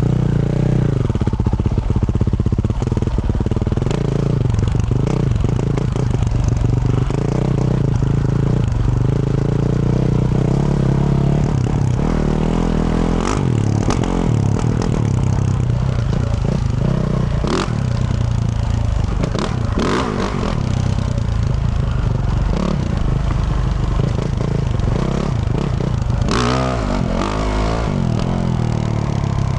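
2024 Yamaha YZ450F dirt bike's 450 cc single-cylinder four-stroke engine with a Yoshimura RS-12 exhaust, running under load while being ridden, its revs rising and falling with the throttle. Several sharp knocks and clatters cut in through the middle and near the end.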